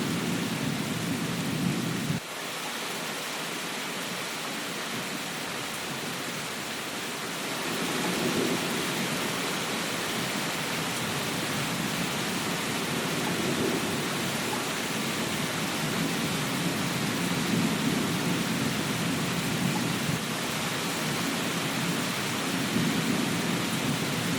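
Steady heavy rain with a low, rolling rumble of thunder underneath. The rumble cuts off abruptly about two seconds in and swells back from about eight seconds.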